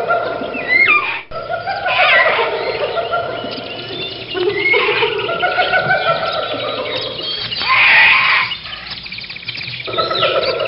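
Gorilla calls: screeching squawks and screams in short bursts, over background music, in a run of abruptly cut clips. The loudest scream comes near eight seconds in.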